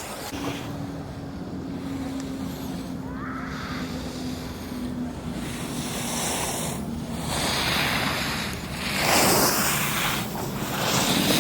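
Edges scraping and hissing over packed snow during a run down a ski slope, with wind on the microphone; the scraping swells loudest about nine seconds in and again near the end.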